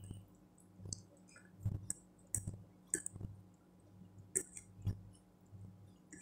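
Close-up eating noises: chewing with wet mouth clicks and lip smacks, a string of sharp smacks roughly a second apart, over a steady low hum.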